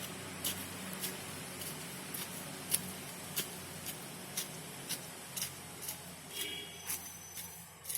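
A series of short, sharp clicks, roughly two a second and not quite even, over a steady low hum, with a brief high chirp about six and a half seconds in.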